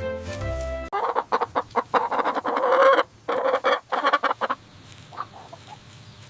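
A short musical jingle ends about a second in, then chickens cluck in quick, rapid bursts for a few seconds, with fainter clucks near the end.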